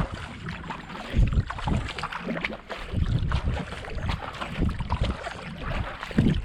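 Racing kayak paddle blades splashing in and out of canal water in a steady hard stroke of about 70–80 strokes a minute, with wind rumbling on the camera microphone.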